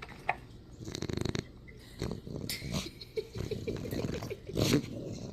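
Shar-pei puppy snoring in its sleep: several noisy breaths, the loudest near the end.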